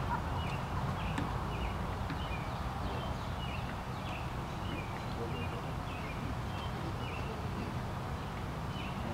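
Outdoor ambience: a bird chirping over and over in short calls, about one or two a second, over a steady low rumble.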